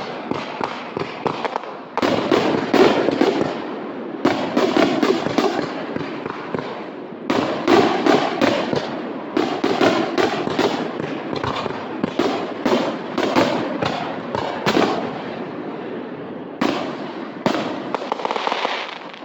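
Fireworks going off in rapid succession: a near-continuous barrage of sharp bangs and crackles, with a fresh volley starting every few seconds.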